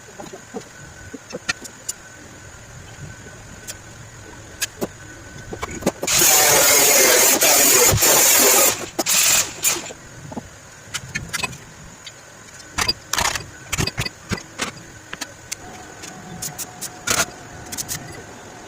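Metalwork on a motorcycle exhaust pipe: scattered metal knocks and clinks, broken by a loud burst of hissing noise lasting about two and a half seconds, starting about six seconds in, and a shorter one a second later.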